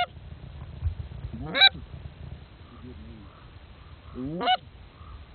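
Canada goose honks: three loud, short honks, each rising sharply in pitch, near the start, about a second and a half in and about four and a half seconds in, with fainter, softer calls between them.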